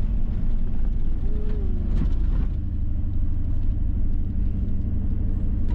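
Steady low rumble of a four-wheel drive's engine and running gear, heard from inside the vehicle, with a few faint rattles.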